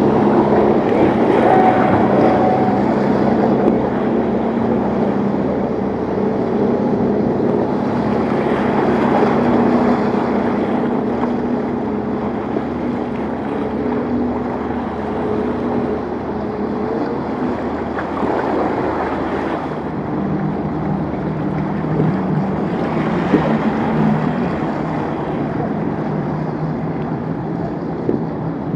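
Motorboat engines running steadily through rough inlet water, over the wash of surf and wind on the microphone, with the noise of waves swelling a few times.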